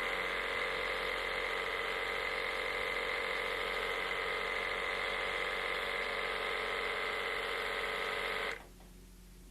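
Electric motor of an Rx System 2 dental-instrument honing machine running steadily with a high whine while an explorer point is honed on the number 2 hone. It cuts off suddenly about eight and a half seconds in.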